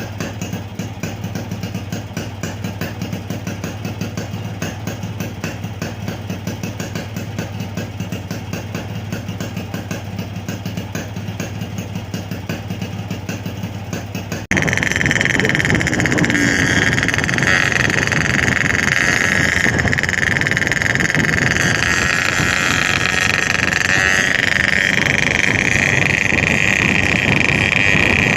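Yamaha RX-King 135cc single-cylinder two-stroke engine running through a Boban C33 aftermarket exhaust, first ticking over steadily with an even pulse. About halfway through, the sound cuts to a louder, higher, raspy engine note that slowly rises and falls in pitch.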